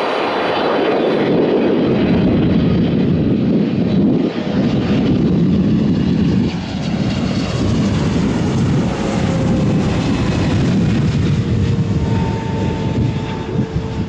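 Jet airliner passing, its engines making a steady, loud rushing noise. In the second half a faint whine slides slightly lower in pitch.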